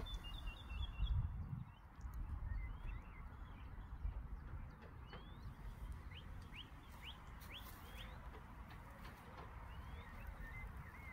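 Wild birds chirping and calling over a faint outdoor hush. There is a quick chatter at the start, then a run of short, sharply rising chirps around the middle and a few scattered calls near the end. A low rumbling on the microphone in the first two seconds is the loudest sound.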